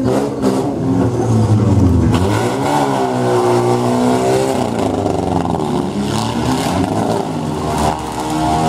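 Car engines of demolition derby wrecks revving, their pitch rising and falling repeatedly as the cars drive and reverse at each other.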